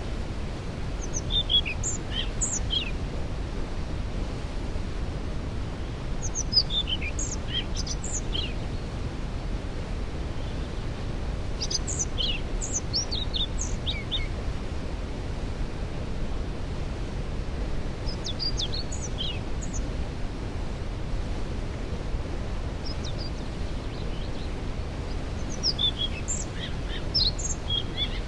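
Steady rush of a waterfall, with a songbird singing short phrases of high chirping notes over it, five times at intervals of about five or six seconds.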